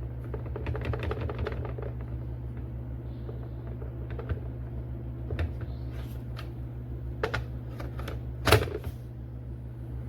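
Irregular light clicks and knocks, a cluster in the first second and a half and then a few single ones, the loudest a sharp knock near the end, over a steady low hum.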